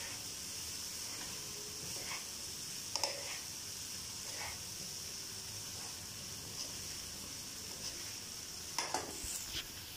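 Chicken fried rice and vegetables sizzling in a hot oiled wok over a high gas flame while being tossed with a white plastic spatula and spoon: a steady frying hiss, with a few scrapes and knocks of the utensils against the pan, several together near the end.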